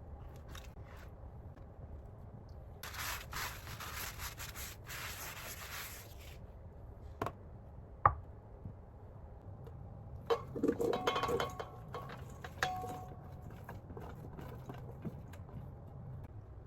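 A scraping, rubbing noise for about three seconds, then two sharp knocks, the second the loudest, and a short clatter of knocks with a little ringing.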